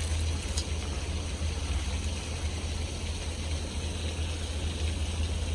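Steady low hum with an even background hiss, and a couple of faint clicks near the start.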